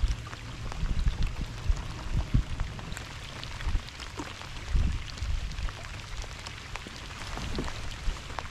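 Heavy rain falling on a lake, a steady hiss of drops on the water with many close, sharp drop ticks. Scattered low thumps come through in the first half.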